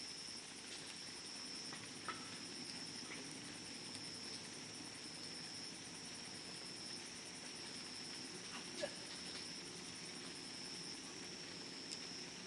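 Wood campfire burning quietly, with a few sharp crackling pops: one about two seconds in, the loudest near nine seconds and a small one near the end. Behind it runs a steady high-pitched drone.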